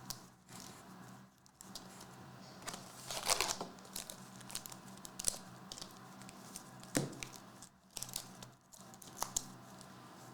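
Trading-card packs being torn open, the wrappers crinkling and rustling in short bursts, with a longer rip about three seconds in and a few sharp clicks.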